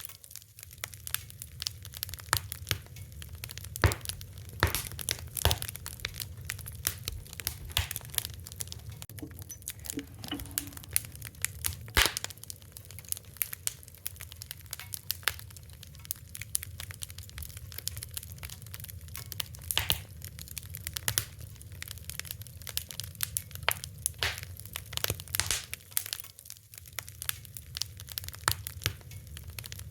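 Fire crackling: a dense, irregular run of sharp pops and snaps over a low, steady rumble.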